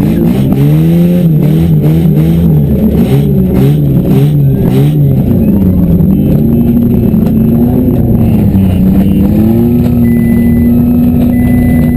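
Demolition derby car engines revving in repeated surges, with a few sharp knocks around the middle; the revs then settle and hold steady near the end.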